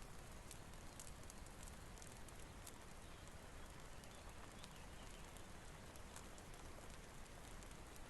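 Quiet steady rain hiss with scattered sharp crackles from a wood fire.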